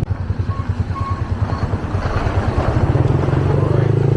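Motorcycle engine running while riding on the road, a steady low pulsing note that shifts up about three seconds in.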